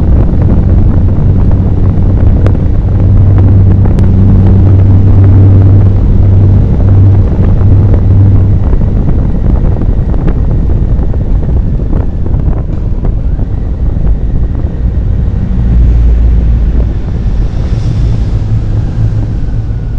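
Heavy wind rushing over the microphone of a moving motorcycle, with the engine's steady hum underneath. The hum is clear for about the first half and then sinks under the wind rumble.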